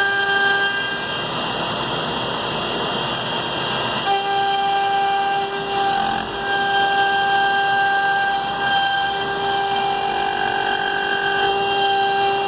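A 3D-printed CNC machine running: a steady mechanical whine at a few fixed pitches. It breaks off and changes about one, four and nine seconds in, with a rougher, noisier stretch from about one to four seconds in.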